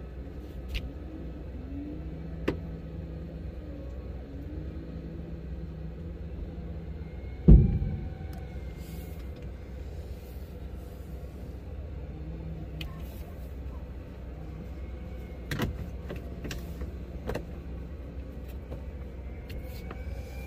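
Nissan GQ Patrol engine running low and steady, heard from inside the cab. A sharp knock about seven and a half seconds in is the loudest sound, with a few lighter clicks scattered through.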